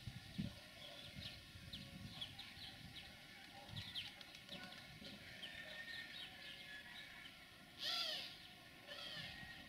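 Birds chirping with many short, high calls, and a louder call with falling pitch about eight seconds in, followed by a weaker one a second later. A faint low rumble runs underneath.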